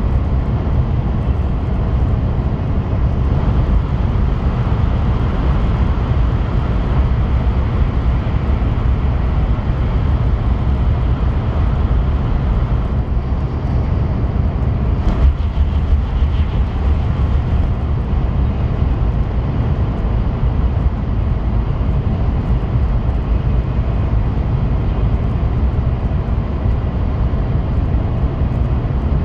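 Interior running noise of an N700S Shinkansen travelling at speed: a steady low rumble that does not change.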